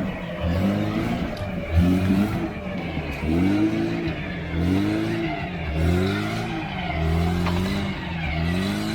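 Vehicle engine revving up and down over and over, about once a second, over a steady low rumble, as a stuck off-road vehicle tries to pull free.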